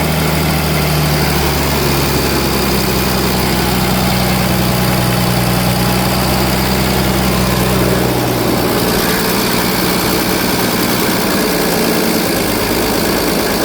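Daewoo D0846 diesel engine, uncoupled from its fire pump, running steadily on its own; about eight seconds in its speed drops and the note changes.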